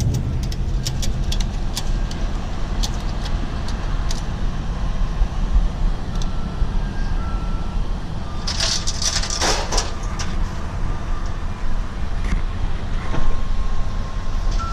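Steady low rumble of a motor vehicle running, with a brief rushing noise about nine seconds in.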